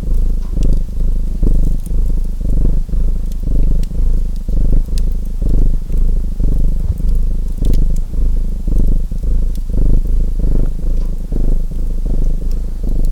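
A domestic cat purring close to the microphone, pulsing in steady rhythmic waves, with faint crackles from a wood fire.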